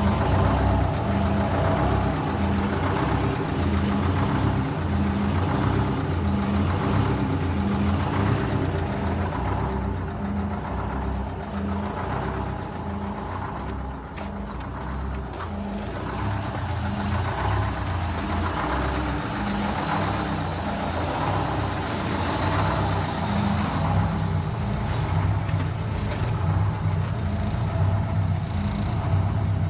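Detroit Diesel 8V71 two-stroke V8 diesel idling steadily while still cold, shortly after a cold start.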